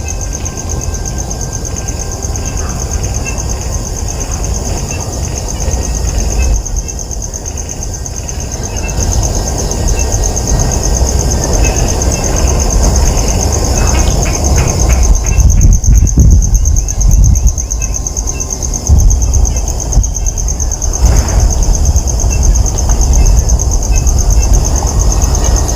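A steady, high-pitched insect chorus trills throughout over a loud low rumble.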